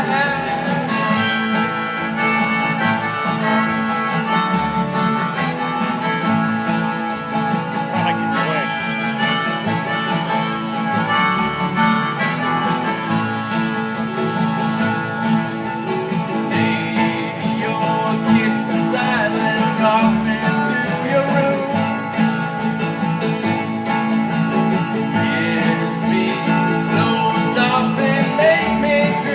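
Live acoustic band music: a harmonica plays the lead over strummed acoustic guitar.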